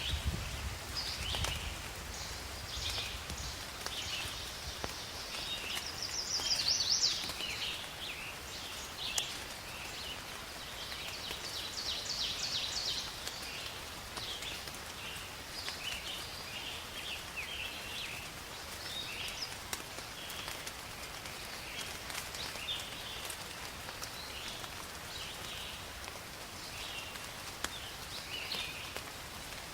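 Steady rain falling, with many short bird chirps and calls over it; a louder burst of calls comes about seven seconds in.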